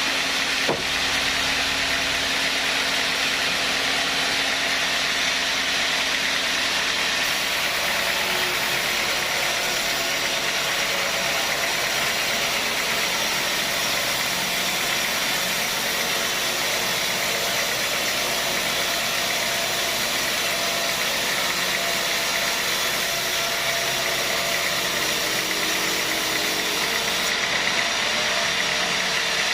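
Sawmill machinery running steadily, a dense even noise with a short knock about a second in.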